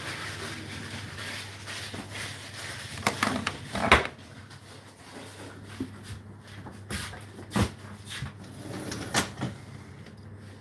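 Knocks and clatters of cupboard doors and household items being handled, a few seconds apart, the loudest about four seconds in, over a steady low hum.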